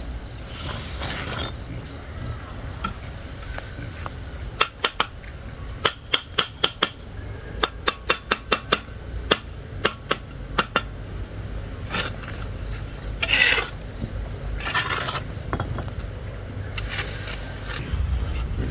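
A quick, irregular run of sharp metallic clinks and taps, followed by a few longer scraping strokes.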